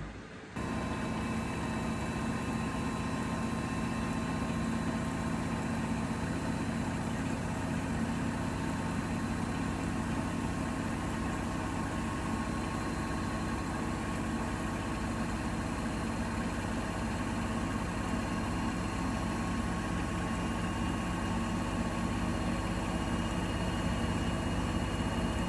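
Bosch Serie 4 washing machine starting up abruptly about half a second in and then running steadily: a continuous low hum with thin, steady high whines. Another higher whine joins about twenty seconds in.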